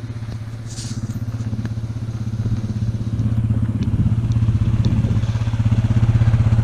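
2006 Suzuki Vinson 500 4x4 ATV's single-cylinder four-stroke engine idling steadily, growing a little louder toward the end.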